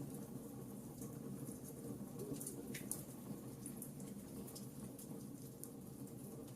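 Wood fire burning in a fireplace: a steady low rumble of flames with scattered small crackles and pops, and one sharper pop about three seconds in.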